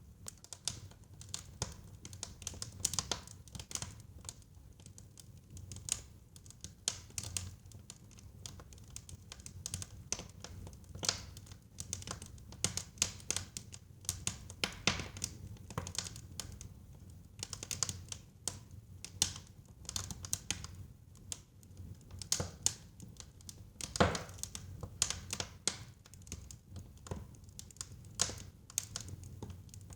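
Wood fire burning in a fireplace: irregular crackling and popping over a low rumble of flame, with one louder pop about 24 seconds in.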